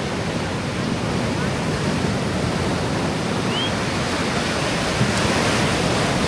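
Ocean surf breaking and washing up the beach: a steady rushing hiss of waves that swells slightly louder near the end.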